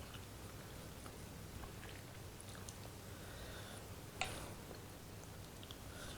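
A man chewing a mouthful of spicy curry instant noodles, with small mouth clicks and one sharp click about four seconds in, over a low steady hum.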